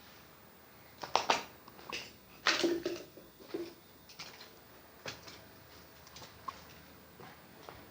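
Irregular crunches and knocks of footsteps on debris and rubbish underfoot, with a short scrape about two and a half seconds in, thinning to a few light ticks later.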